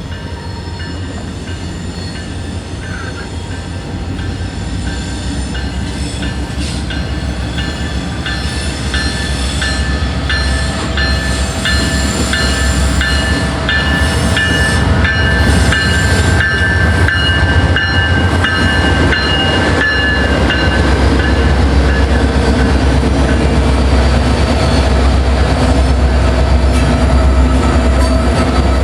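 Diesel locomotive at the head of a freight train approaching, its deep engine rumble growing steadily louder. Through the middle stretch a bell rings steadily at about two strikes a second.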